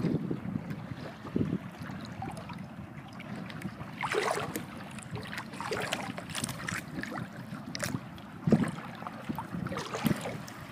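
Water splashing and lapping irregularly against a small boat, in uneven bursts.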